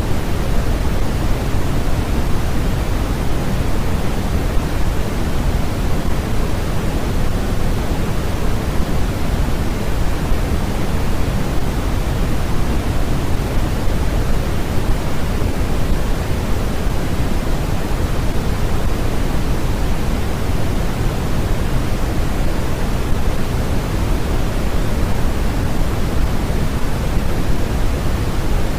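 Steady, unchanging white-noise sleep track: an even hiss with its weight in the low end, closer to pink noise than flat white noise.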